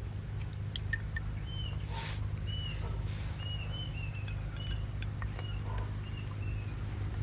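Small birds chirping in a run of short, high calls, with a few light clicks over a steady low background hum.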